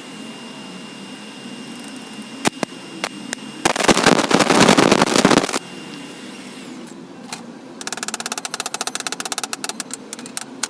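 Workshop tool sounds: a low steady hum, a few sharp knocks, a loud harsh burst lasting about two seconds, then a fast rattle of about ten beats a second for nearly three seconds.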